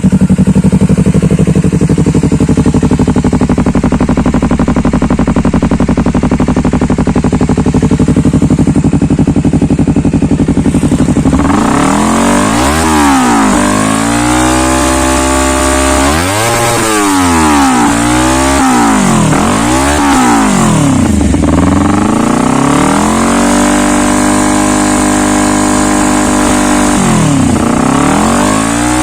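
Honda CBR250RRR parallel-twin engine through an aftermarket stainless Triton GT-5 exhaust, idling steadily, then revved repeatedly from about eleven seconds in: several quick blips rising and falling in pitch, one held a few seconds longer.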